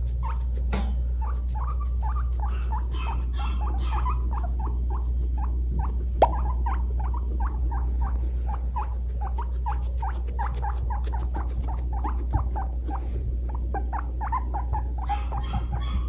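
Guinea pigs giving a rapid run of short, repeated squeaks, about three a second, from a quarrel over their house. One sharp click about six seconds in.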